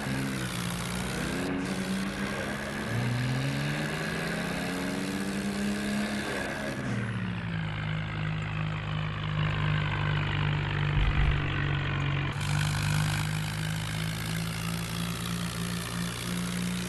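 John Deere tractor's diesel engine running, its speed rising and falling for the first several seconds, then holding steady from about seven seconds in.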